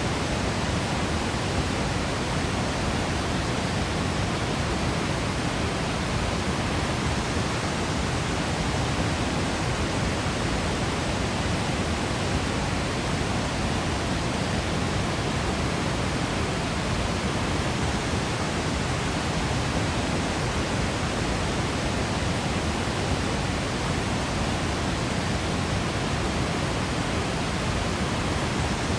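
Waterfall in Yosemite, a steady, unbroken rush of falling water, heaviest in the low end.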